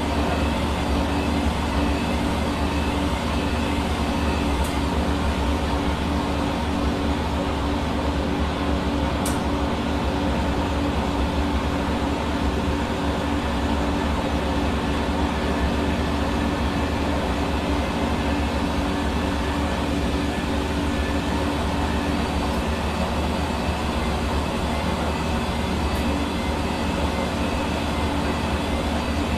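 Hair dryer running steadily: an even rush of blown air with a constant motor hum.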